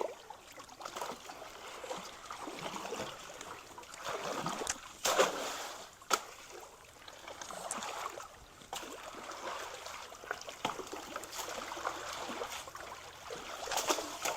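Creek water sloshing and splashing as logs and debris are shoved through it by hand, over a steady trickle of running water, with a sharper splash about five seconds in.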